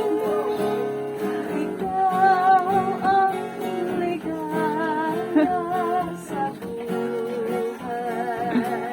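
A song: strummed acoustic guitar with a singing voice, the sung lines wavering with vibrato.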